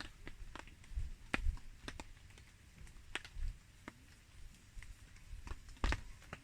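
Wood campfire crackling in the rain: sparse, irregular sharp pops and ticks, a few a second, over a low rumble.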